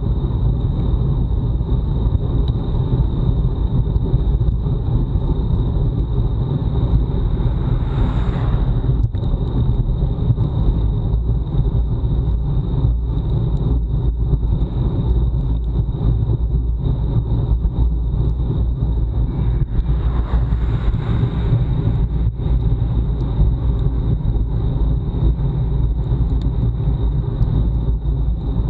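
Wind buffeting a bike-mounted action camera's microphone at speed, mixed with road noise, giving a steady low rumble. A brief hiss swells up twice, about eight and twenty seconds in.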